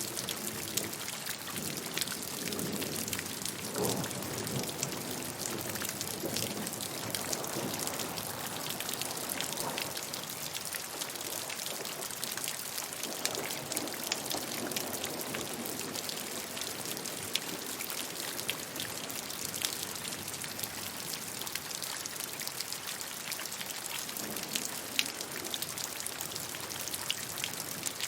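Steady rainfall, with dense pattering of drops and occasional sharper single drop ticks over a soft hiss.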